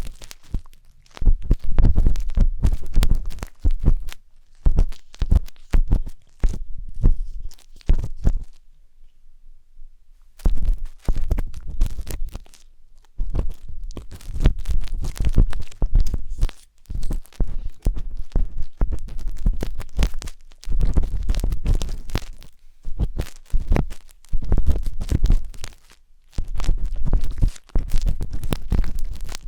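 Wooden tanghulu skewer scraping and scratching inside the silicone ears of a 3Dio binaural microphone, in close, crackly strokes with a heavy low rumble. There is a short pause about nine seconds in.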